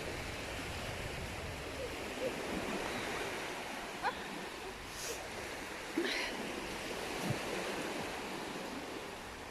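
Steady rush of water from a small waterfall gushing hard, with a few brief faint high calls about four and six seconds in.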